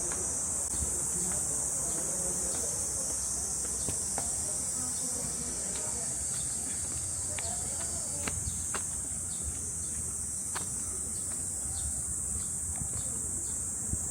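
A steady, high-pitched chorus of summer insects, most likely cicadas, droning without a break, with a few light clicks scattered through the middle.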